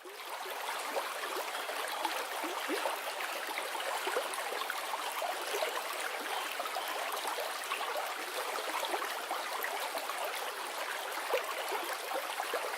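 Running water, like a brook, flowing steadily with many small gurgles.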